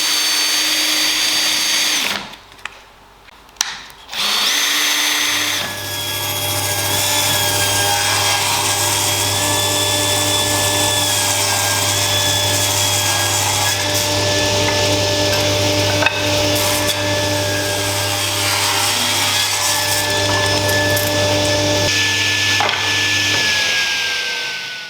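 Electric power tool running with a steady motor whine. It stops about two seconds in, starts again a couple of seconds later and runs on, then winds down with a falling pitch near the end.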